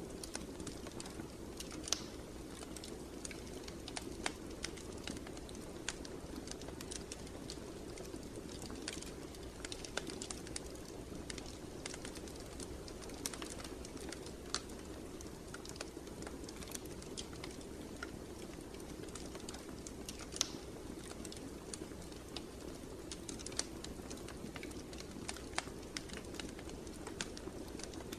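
Fireplace fire crackling: irregular sharp pops and snaps over a steady low rush.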